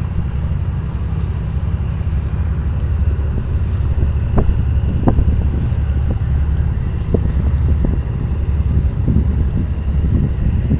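A boat's engine running with a steady low rumble during a tow, with wind noise on the microphone. A few brief sharp sounds stand out about four to seven seconds in.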